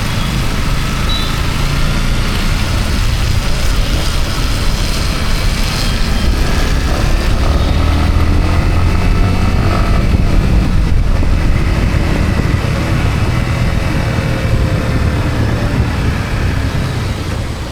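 Yamaha MT-15's 155 cc single-cylinder engine running under way, heard over steady wind and wet-road tyre noise. The engine note shifts in pitch and grows a little louder through the middle, then eases off near the end.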